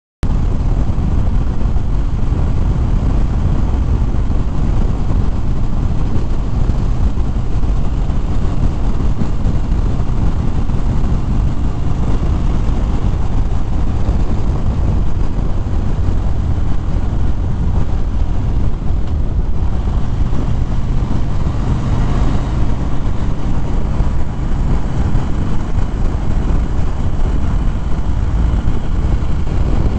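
Harley-Davidson Fat Bob motorcycle riding at road speed: a steady engine drone under heavy wind rumble on the microphone.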